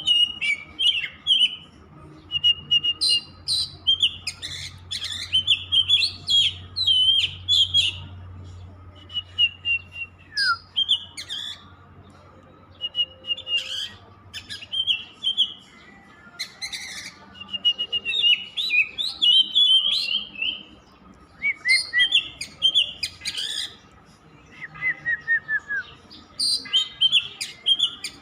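Oriental magpie-robin (kacer) singing a long run of varied whistled phrases mixed with short sharp notes, broken by brief pauses.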